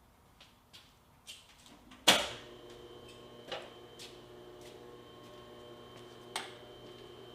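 A few faint clicks, then a loud sharp clack about two seconds in, after which a steady electric hum starts and keeps running, with several sharp clicks and knocks over it.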